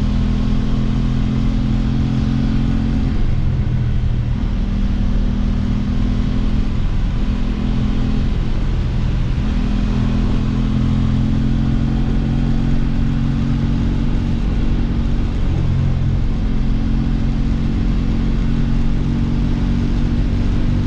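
Aprilia RS 660's 659 cc parallel-twin engine running under way, holding steady revs that change pitch several times as the throttle and gears change, over a rush of wind and road noise.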